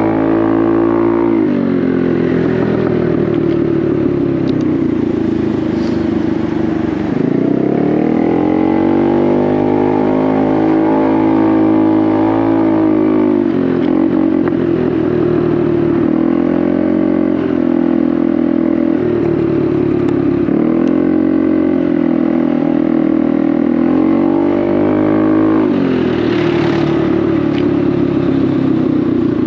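Honda Navi's single-cylinder engine running through an aftermarket Vance & Hines exhaust while riding, its revs rising and falling several times as the throttle is opened and eased off.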